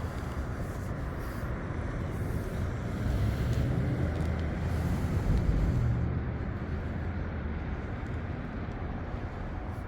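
Steady rush of street and traffic noise heard from a moving bicycle in a city, swelling louder about three seconds in and easing back about three seconds later.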